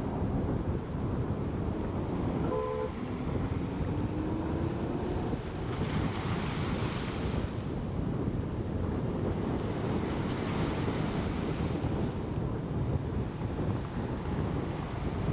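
Wind buffeting the microphone over sea waves, with a steady low rumble. A short tone about two and a half seconds in is followed by a slowly rising tone that fades a few seconds later, and there are two hissy swells near the middle.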